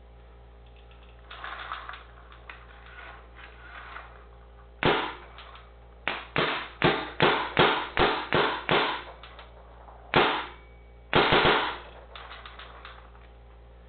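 Proto PM8 paintball marker firing, loud in a basement: a single shot, then a fast string of about nine shots, another single shot, and a short burst of two or three, with softer rattling in between.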